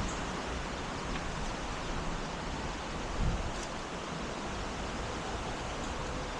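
Steady rushing noise of wind outdoors, with a low buffet of wind on the microphone about three seconds in.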